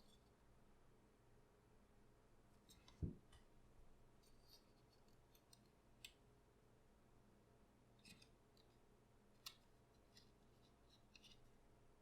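Near silence with faint, scattered snips of scissors cutting paper every second or two, and one soft low thump about three seconds in.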